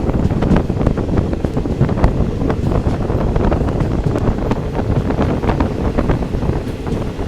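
Passenger train running at speed, with a steady rumble from the wheels and track and many short rattles and clicks, and wind buffeting the microphone.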